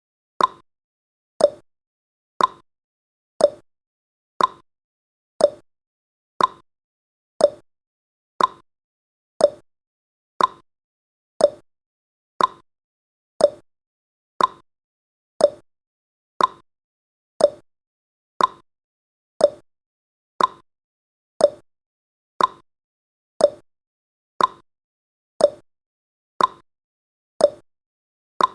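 Clock tick-tock sound effect: one sharp click every second, alternating a higher tick and a lower tock, steady and even.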